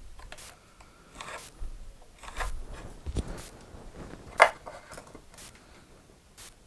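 Hands handling tools on a wooden workpiece: short scrapes and rubs with small knocks, and one sharp click about four and a half seconds in.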